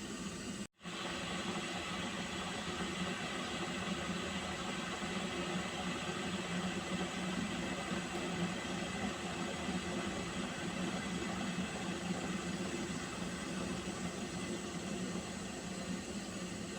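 Pot of water heating to a boil, giving a steady hiss, with a brief dropout to silence less than a second in.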